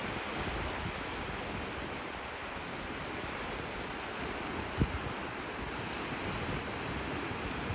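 Steady rushing noise of wind and surf, with one brief low thump about five seconds in.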